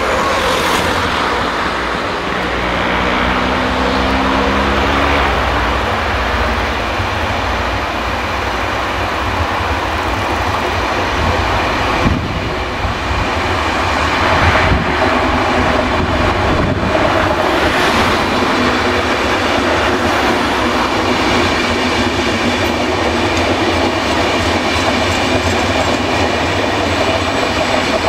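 Electric train passing on the line: a loud, steady rumble of wheels on the rails with clickety-clack.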